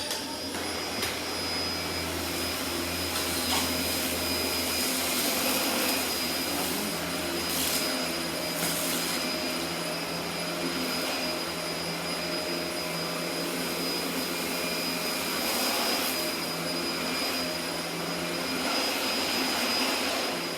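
Dyson DC24 upright vacuum cleaner running steadily with a high-pitched motor whine over a rush of airflow. Its motor winds down at the very end.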